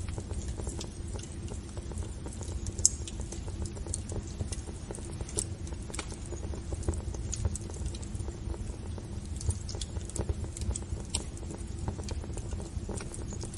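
Wood fire burning in a fireplace: a low steady rumble with frequent irregular crackles and pops, the sharpest about three seconds in.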